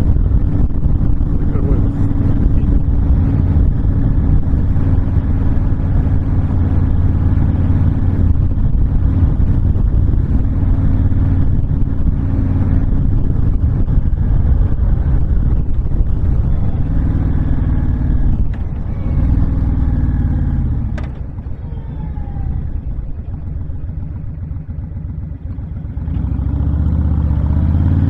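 Honda VTX1300 cruiser's V-twin engine running at steady road speed under heavy wind rush. About two-thirds through the engine eases off and runs quieter for a few seconds, then pulls back up near the end.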